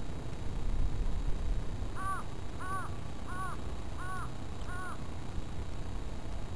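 A bird calls five times, evenly spaced about two-thirds of a second apart, each call a short arched note. Under it, wind rumbles steadily on the microphone.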